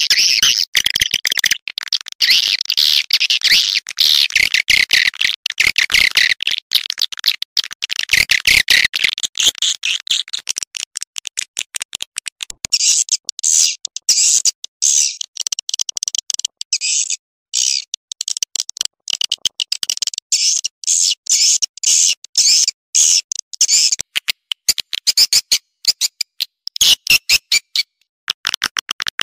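Swiftlet calls on a recording: dense, high-pitched twittering chirps in rapid runs broken by many short gaps, shifting a little higher about twelve seconds in.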